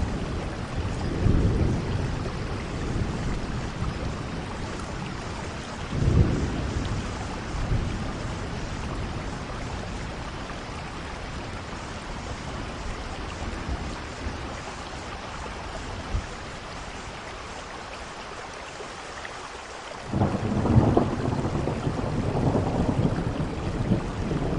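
Steady rainfall with low rumbles of thunder rolling in and out: one about a second in, another around six seconds, and a longer, louder roll starting near the end.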